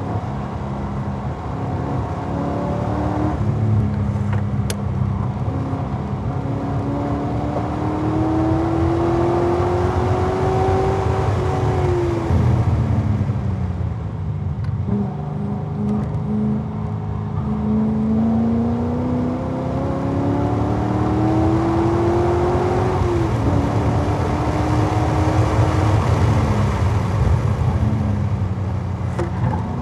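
2011 Corvette Z06's 7.0-litre LS7 V8 at full throttle on a race track, its pitch climbing as it pulls hard. Near the middle it falls away under braking, with a few short blips of downshifts. It then pulls up again, shifts up briefly after about 23 seconds, and eases off near the end, with wind and tyre noise throughout.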